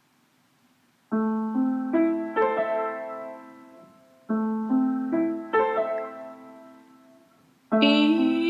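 Piano playing a slow closing phrase. After about a second of near silence, four notes are struck one after another and left to ring together as a fading chord. The same four-note pattern comes again, and a brighter chord is struck near the end.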